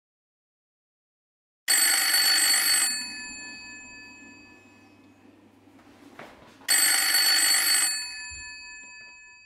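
Phone ringing: two loud rings, each about a second long and about five seconds apart, each leaving a slowly fading bell-like tone.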